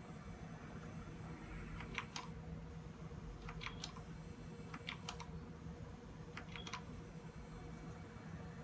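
Desktop computer making a strange clicking noise: four groups of two or three short sharp ticks, about one every second and a half, over a steady low hum. The noise persists even with the power supply, graphics card and sound card replaced.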